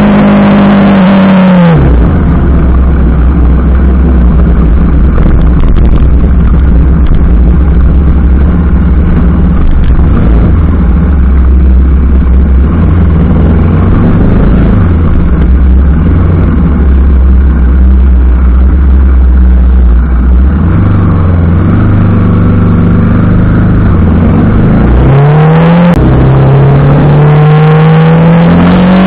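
TVS Apache RR310's single-cylinder engine: its revs fall steeply about two seconds in, then it runs low and steady for most of the stretch, before revving up again near the end with a short break in the climb and another drop just before the end.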